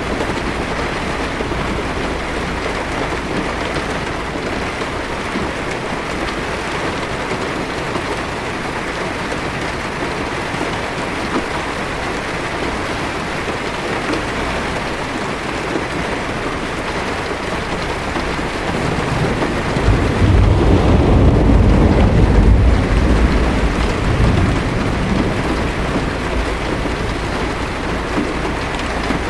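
Heavy rain falling steadily on a car's windshield and body, heard from inside the car. About twenty seconds in, a low roll of thunder rumbles for several seconds and fades.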